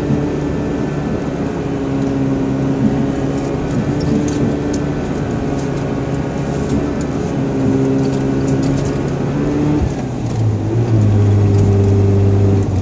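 Mazda RX-7's naturally aspirated 13B rotary engine running at fairly steady revs, its note wavering a little; about ten seconds in the note drops and gets louder.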